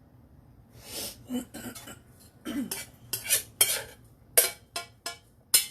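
A spoon scraping and knocking against dishes as cooked rice is spooned out for a casserole layer: about ten sharp clinks and scrapes, starting about a second in and getting louder toward the end.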